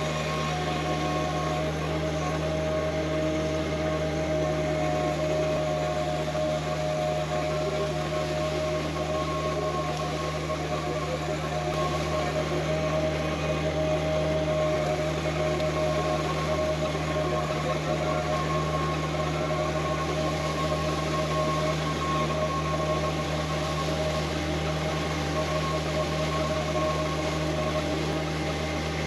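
A machine running steadily with an unchanging hum and a few fixed tones over a noisy drone.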